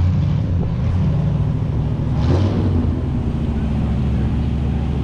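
Classic car's engine running at low revs close by, a deep steady rumble, swelling briefly about two seconds in.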